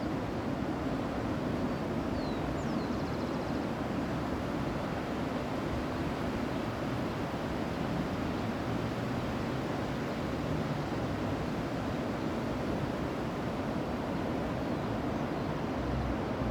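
Steady rushing noise of sea waves and wind, with a faint high chirp about two and a half seconds in.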